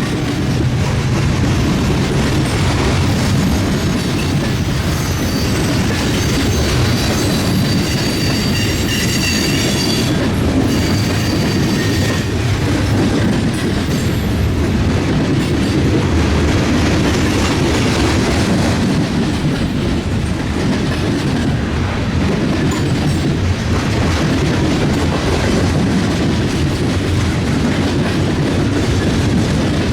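Freight train cars rolling past with a steady rumble and clickety-clack of wheels over rail joints. A faint high wheel squeal comes in for a few seconds, starting about six seconds in.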